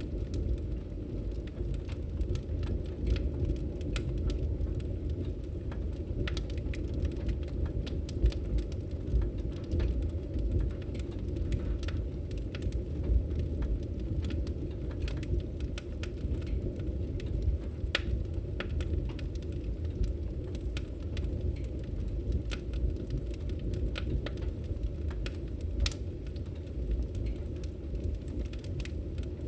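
Wood fire crackling in a fireplace: a steady low rush of flames with scattered sharp pops and snaps.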